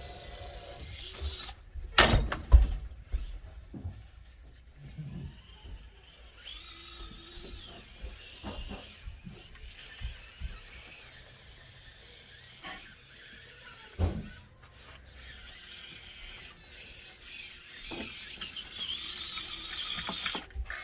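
Whine of a 1/24-scale Axial SCX24 mini crawler's small electric motor and gears, rising and falling with the throttle. Knocks from the truck on the course come through it, the loudest about two seconds in and again near the middle.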